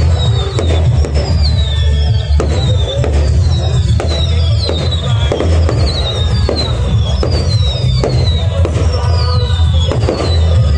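Fireworks display: a rapid run of sharp cracks and bangs as shells and crackling effects burst, over a steady deep rumble, with music playing along.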